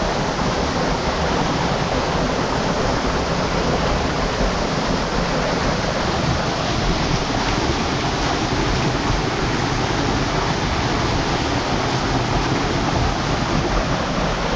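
Steady, loud rush of water pouring into a hot spring pool, even and unbroken.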